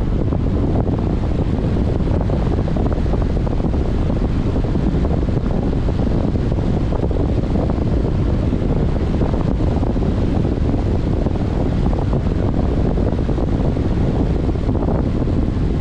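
Steady, loud rush of strong wind buffeting the onboard GoPro's microphone on a fixed-wing RC plane in flight, with the plane's electric motor and propeller running underneath.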